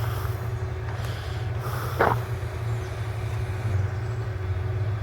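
Motor vehicle running with a steady low rumble, and a brief sharp squeak about two seconds in.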